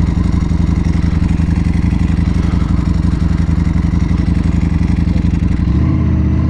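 Ducati Panigale V4 motorcycle engine running under way at a steady note. Its pitch pattern shifts near the end, a change of throttle or gear.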